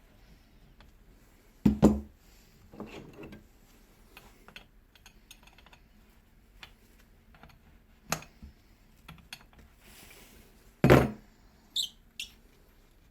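Irregular hard knocks and clunks as the handle is worked off the Hilti DD 130 core drill during disassembly. The loudest comes about 11 seconds in, followed by a short, high metallic clink.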